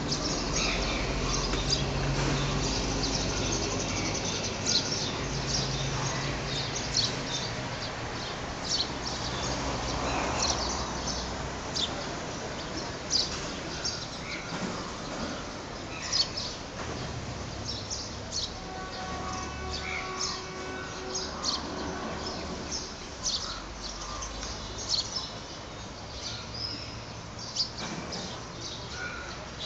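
Small birds chirping again and again in short high calls, over a low background rumble that comes and goes.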